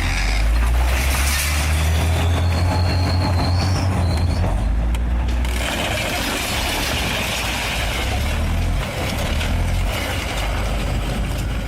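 Heavy machinery running with a deep, steady rumble and a rough grinding din. A high metallic squeal rises over it for a couple of seconds, about two seconds in.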